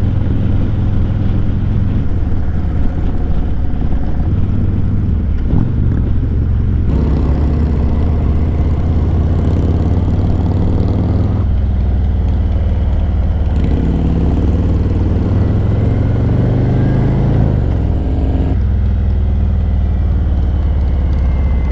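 Harley-Davidson V-twin motorcycle engine running under way, its low note rising for a few seconds past the middle and then falling back.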